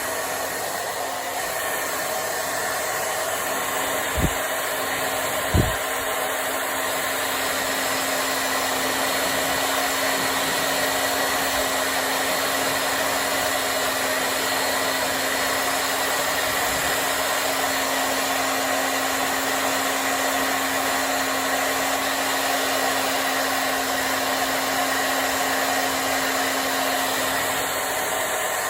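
Hand-held hair dryer blowing steadily while drying hair, a loud even rush of air over a steady motor hum. Two brief low thumps come about 4 and 5.5 seconds in.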